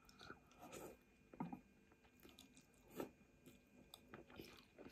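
Faint chewing and mouth sounds of a person eating an egg noodle dish, a few soft short clicks scattered through, the loudest about one and a half and three seconds in.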